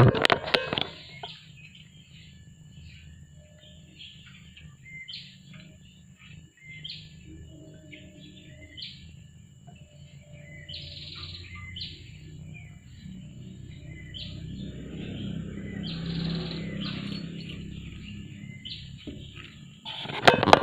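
Small birds chirping in short repeated calls over a low steady rumble, with brief louder noises in the first second and again near the end.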